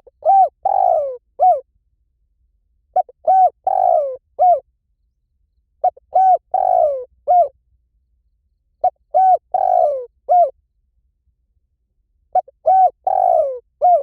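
Spotted dove calling: a cooing phrase of several short arched notes, with one longer note that falls in pitch, repeated five times about every three seconds.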